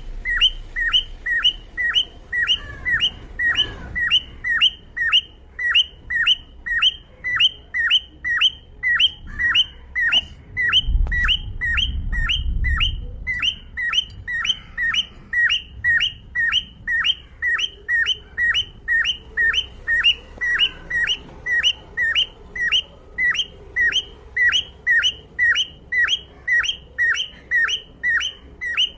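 Cockatiel calling the same short, downward-sliding chirp over and over, very evenly, about twice a second without a break. A low rumble comes in briefly about eleven seconds in.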